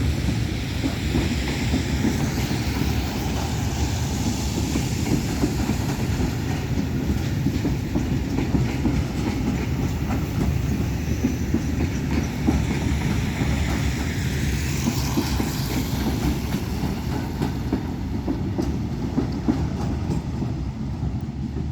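A train hauled by two Railcare TMZ diesel locomotives passing at speed, with a steady low rumble and the wheels clattering over the rail joints.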